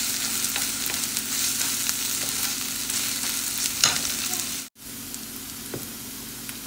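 Diced onions and ginger paste frying in hot oil in a nonstick pan, sizzling steadily, with a wooden spatula stirring and clicking against the pan. About four and a half seconds in, the sound cuts out for an instant and the sizzle goes on quieter, without the stirring.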